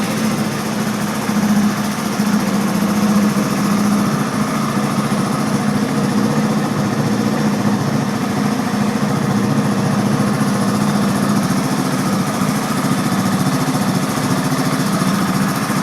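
Spyder 350 quad ATV's engine idling steadily through its exhaust.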